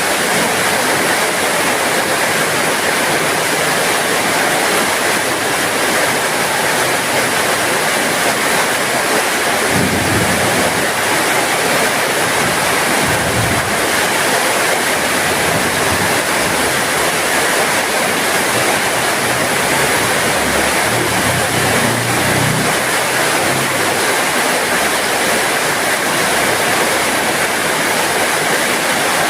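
Heavy rain falling steadily, an even hiss, with a brief low rumble about ten seconds in and again around twenty-two seconds.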